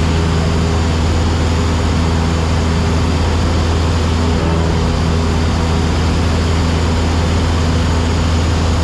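Cessna 172SP's four-cylinder Lycoming engine and propeller running at a steady cruise setting: a loud, even drone with a deep hum and no change in pitch, heard from inside the cabin.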